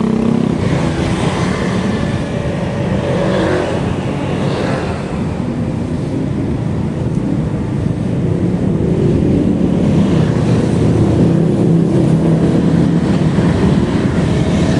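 Steady road traffic noise heard from a moving ride, with vehicle engines running close by. It gets a little louder from about eight seconds in.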